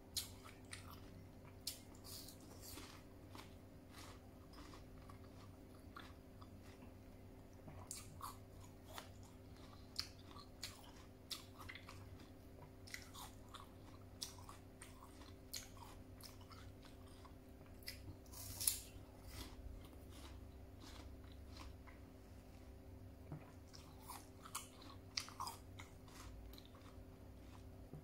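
Close-up chewing and biting of crisp raw pear slices: irregular crisp crunches and mouth clicks, with one louder crunch about two-thirds of the way through.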